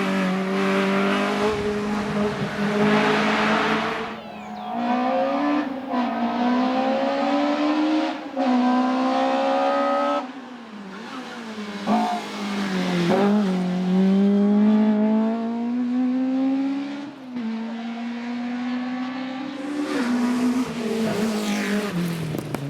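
Racing car engine at full throttle on a hillclimb, its revs climbing and dropping again and again with gear changes. A loud hiss over the engine fills the first few seconds.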